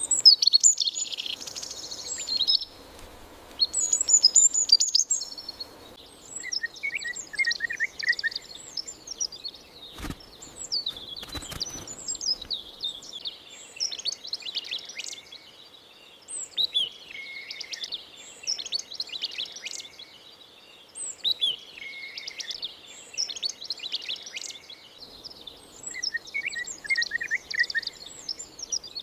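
Several songbirds chirping and singing at once, a dense chorus of short, high calls. A lower, quick trill comes twice: about seven seconds in and again near the end.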